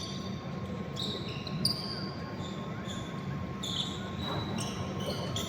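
Basketball game on an indoor court: a ball bouncing and sneakers squeaking in short, high chirps, over a low murmur of voices.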